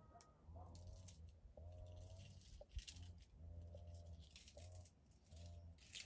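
Faint birds calling: short warbling notes repeating about once a second, with fainter high chirps between them.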